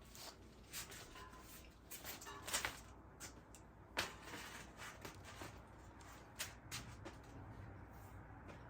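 Scattered light knocks and clicks of equipment being handled while a fryer is set up, the sharpest about four seconds in, over a faint low hum.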